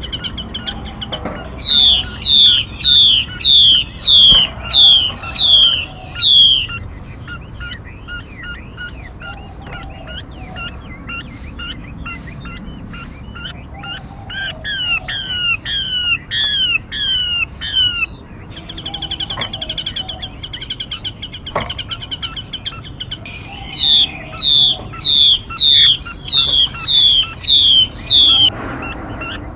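Recorded songbird calls played as a trapping lure: two bouts of loud, repeated downward-sweeping whistles, about two a second, with softer chirps and short trills between them.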